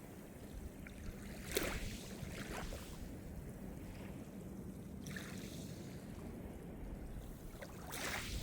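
Small Mediterranean waves breaking on the shore over a constant low wash of surf. Splashes come about a second and a half in, about five seconds in, and again near the end.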